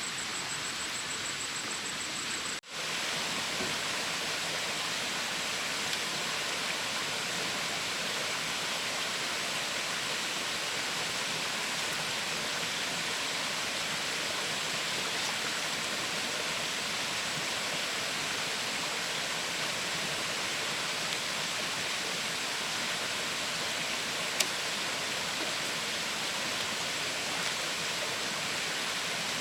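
Steady outdoor hiss, with a thin, steady high-pitched tone running through it. The sound cuts out almost completely for a moment about two and a half seconds in, and there is a single sharp click near the end.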